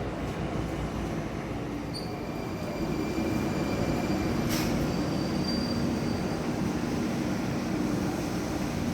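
Moscow Metro train running through a station with a steady rumble. A thin high wheel squeal comes in briefly about two seconds in and again midway, and there is a single sharp click about four and a half seconds in.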